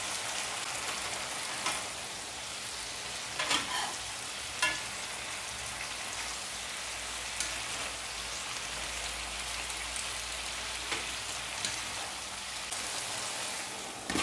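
Vegetables and fried salmon balls sizzling in a hot nonstick wok, a steady frying hiss. A few sharp clicks are heard as they are stirred with a wooden spatula and a slotted turner.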